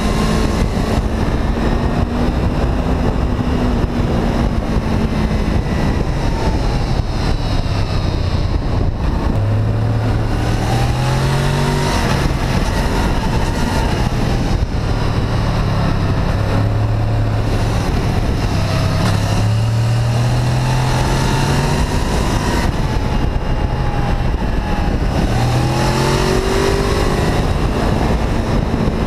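Honda VFR800 VTEC's V4 engine on a ride, the revs climbing and dropping again several times as it pulls through the gears, under a steady rush of wind noise.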